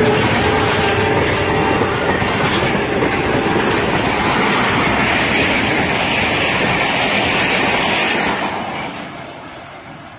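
Express passenger train's coaches passing at speed close by: a loud, steady rush of wheel and rail noise. The locomotive's horn tails off right at the start, and the noise fades away from about eight and a half seconds in as the train recedes.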